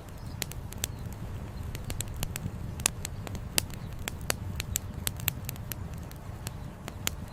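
Wood fire crackling and popping, sharp irregular snaps over a steady low rumble.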